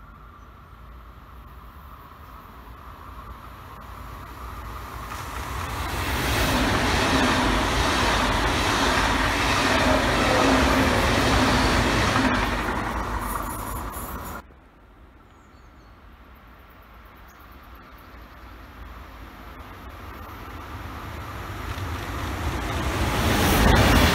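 Passenger trains passing through a station on the main line: the rush of a train growing louder as it approaches, loud wheel-on-rail noise as it goes by, then a sudden cut. A second train, locomotive-hauled coaches, then builds up and rolls past loudly near the end.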